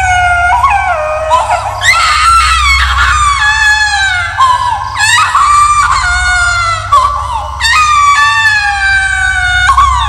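Horror sound effect of shrill, wailing screams: a string of long, high cries that each slide down in pitch, over a steady low drone.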